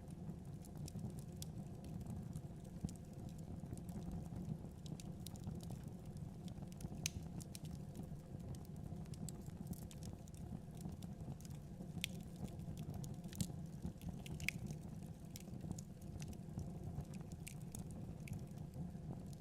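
Wood fire burning in a fireplace: a steady low rumble with irregular sharp crackles and pops from the burning wood.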